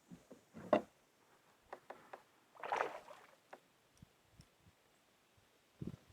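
Scattered light knocks and bumps on a fishing kayak, with a short splashing rush about three seconds in and a few low thumps near the end.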